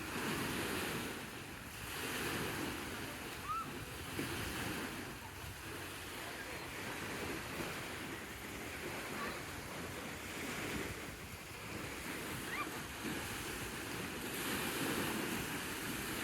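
Waves washing in against the shore in a steady wind, the wash swelling and easing every couple of seconds, with wind buffeting the microphone.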